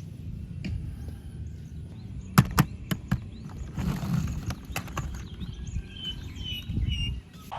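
A handful of sharp clicks or taps, over a low steady rumble, about two and a half to three seconds in, with a few short bird chirps near the end.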